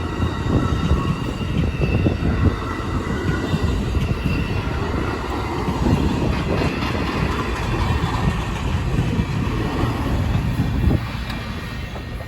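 Amtrak California Zephyr passenger cars rolling past as the train departs: a steady rumble of wheels on rail, with a faint thin squeal of wheels against the rail. The rumble eases a little near the end.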